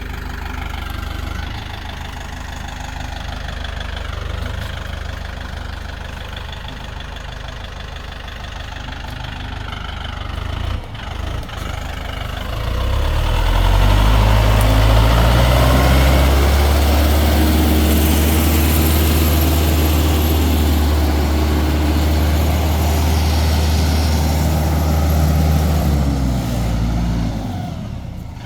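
A vehicle engine runs steadily, then revs up about halfway through. It holds at high revs under load for around twelve seconds, then drops back toward idle near the end.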